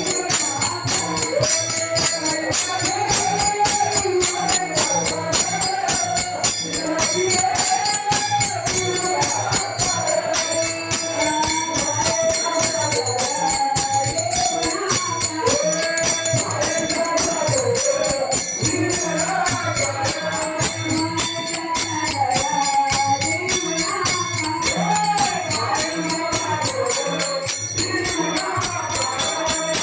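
Marathi bhajan: voices singing a devotional melody over the steady, continuous jingle of taal hand cymbals and the beat of a mridang drum.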